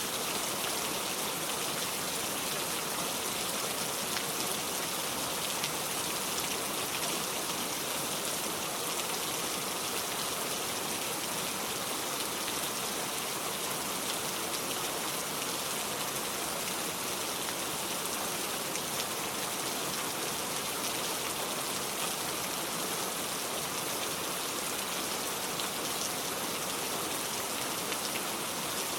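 Steady rain falling, an even hiss with fine patter.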